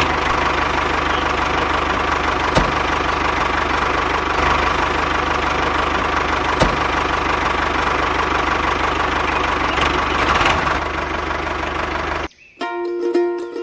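Tractor engine idling steadily with a knocking beat, cut in and cut off abruptly, with two faint clicks along the way.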